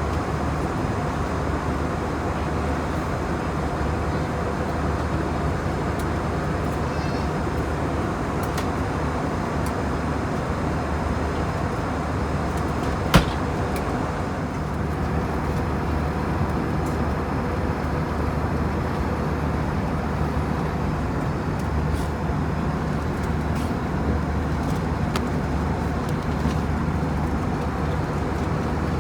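Steady cabin drone of an Airbus A321 in flight, from its CFM56 engines and the airflow over the fuselage, with a single sharp click a little under halfway through.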